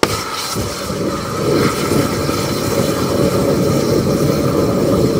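Propane-butane gas rushing loudly. It starts abruptly and then holds a steady rush.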